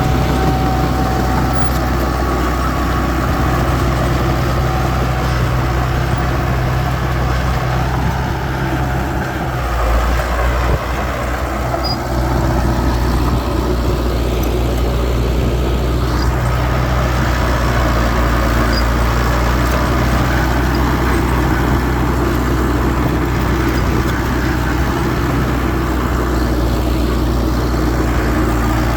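Heavy diesel engine of earthmoving machinery running steadily, its low note changing briefly about ten seconds in.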